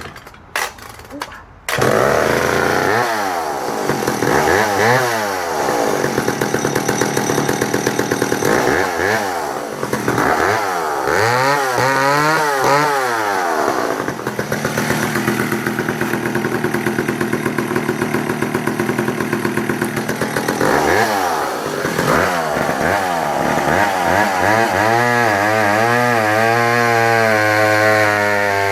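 Danarm 55 Mk3 54cc two-stroke chainsaw starting after a few short pulls, catching about two seconds in. It is then revved up and down several times and held at high speed.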